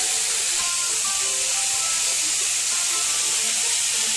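Grated beetroot sizzling in hot ghee in a pan, giving a steady hiss as its moisture turns to steam.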